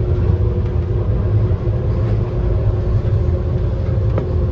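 DLR B92 stock light-rail train running, heard from inside the car: a steady low rumble with a steady motor hum over it, and a couple of sharp clicks near the end.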